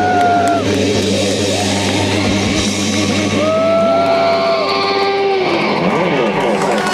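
Live rock band playing loud distorted electric guitar with no vocals. Long held guitar notes bend in pitch at their starts and ends over a steady low drone.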